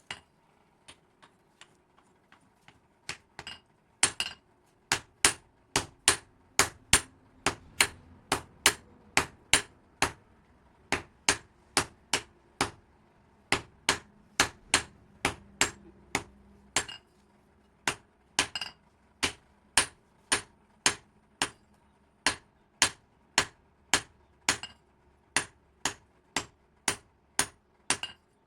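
Hand hammer striking metal on an anvil in blacksmith work: a few light taps, then a steady run of sharp, ringing blows about two a second, broken by brief pauses.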